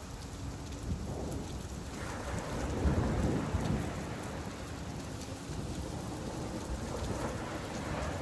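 Steady rain falling, with a low rumble that swells up about two seconds in and fades over the next couple of seconds.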